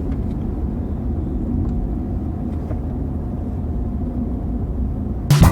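Steady low rumble of a car driving, the engine and tyre noise heard from inside the cabin. Guitar music starts abruptly near the end.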